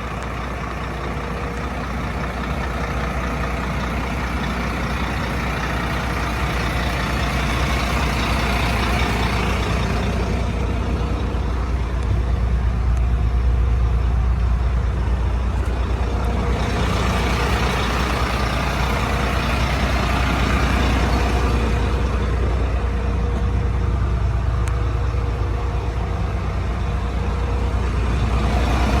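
Fire engine's engine running steadily with a deep hum that builds slowly over the first dozen seconds. A hiss swells and fades over it a few times.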